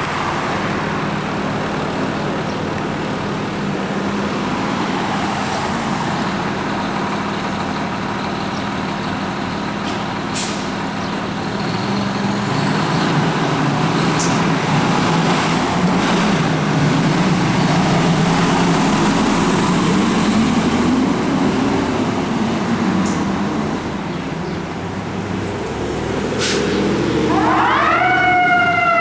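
Fire truck's diesel engine running and pulling away, with a few short air-brake hisses. Near the end its siren starts to wind up.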